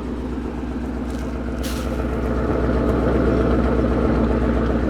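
A car engine running close by, swelling louder through the middle and easing off near the end, with a short hiss about a second and a half in.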